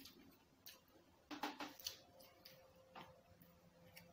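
Near silence with a few soft clicks and smacks of people chewing food, the loudest a short cluster about a second and a half in.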